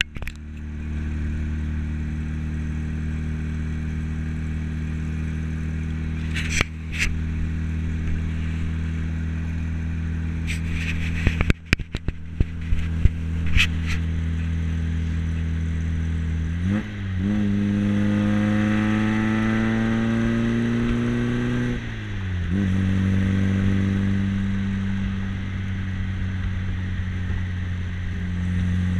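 1958 MGA Twin Cam's modified twin-cam four-cylinder engine heard from the open cockpit on the move. It drones steadily at cruise, then there is a gear change just past halfway and the note rises steadily under acceleration for about five seconds. Another shift follows, then steady cruising again. Several sharp knocks and rattles come in the first half.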